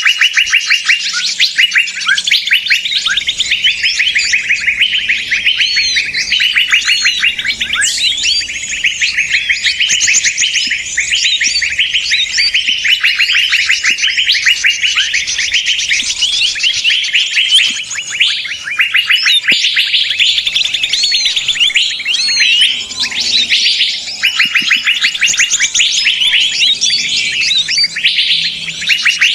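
Dense chorus of many small songbirds chattering and trilling at once, fast repeated chirps overlapping without a break: a 'noisy birds' lure recording used to draw wild birds in.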